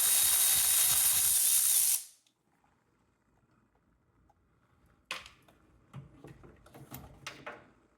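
Power ratchet spinning a 10 mm fastener, a steady loud whir that cuts off abruptly about two seconds in. A few light clicks and knocks of handled metal parts follow near the end.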